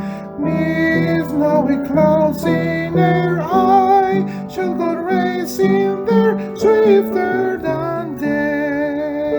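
Music: a melody on plucked strings, most likely guitar, with notes changing steadily.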